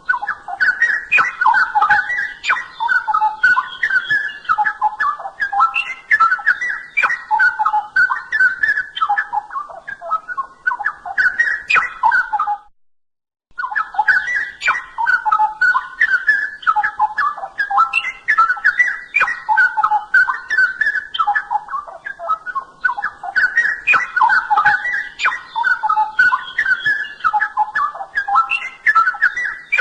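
Straw-headed bulbul (cucak rowo) singing loudly and continuously in rich, bubbling whistled phrases that repeat over and over. The song breaks off for about a second midway, then resumes.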